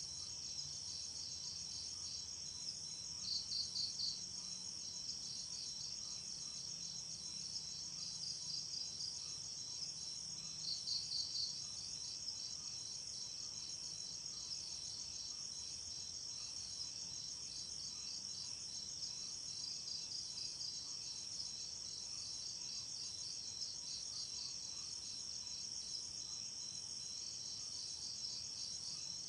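A night chorus of crickets trilling in a steady, high, rapidly pulsing drone. Twice, a little after three seconds in and again around eleven seconds in, a nearer insect gives a louder short burst of chirps.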